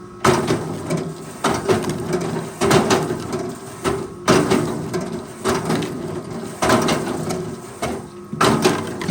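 Forestry machinery working: an engine runs steadily while loud clunks and knocks come every second or two, each dying away before the next.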